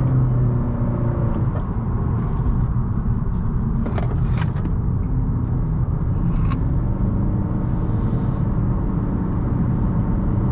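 2018 Honda Accord's 1.5-litre turbocharged four-cylinder engine pulling hard through corners, with steady tyre and road noise, heard from inside the cabin. The engine note falls and climbs again as the car lifts and accelerates, with a few short clicks in the middle.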